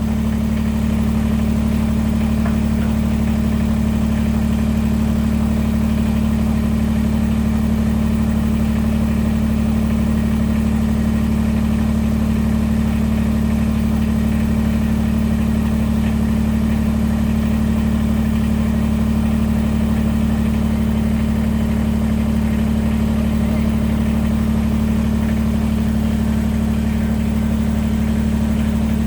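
Kubota BX23S compact tractor's three-cylinder diesel engine running at a steady, unchanging speed.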